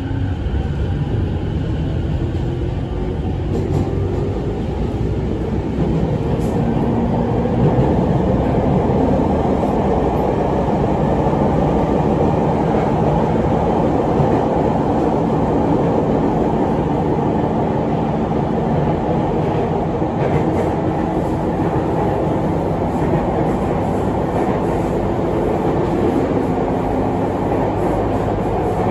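Sotetsu 10000 series electric train running, heard from inside the car: a steady rumble of wheels on rail. Over it, the whine of the traction motors fed by the Mitsubishi IGBT VVVF inverter rises in pitch over the first ten seconds or so, then holds steady.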